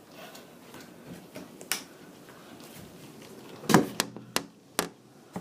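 A door shutting with a thud about two thirds of the way through, followed by a few sharp clicks; a single click comes a little earlier.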